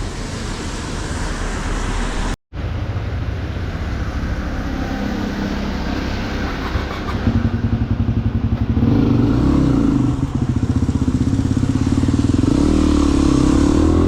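Motorcycle engine running under way, cut off by a brief gap about two and a half seconds in. It gets louder about seven seconds in and climbs in pitch near the end as the bike accelerates.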